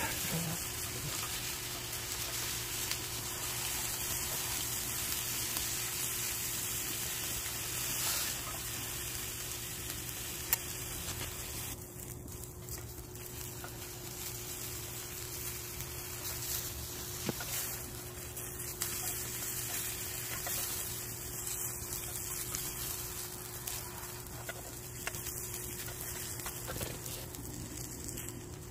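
Coiled gopchang sizzling steadily in a frying pan over a wood fire, with one sharp click about ten seconds in.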